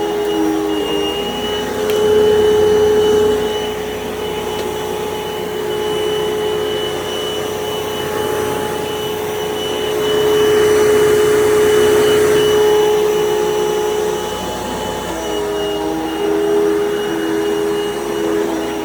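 Dirt Devil Total Vision UD70220 vacuum cleaner running while vacuuming carpet: a steady motor whine that grows louder a couple of times, with its pitch shifting briefly about a second in and again near the end.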